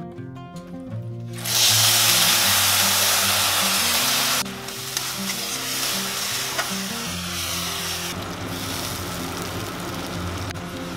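Food sizzling in hot mustard oil in a wok. The sizzle starts suddenly and loudly about a second and a half in, then drops and carries on more quietly while the masala is stirred. Soft background music plays underneath.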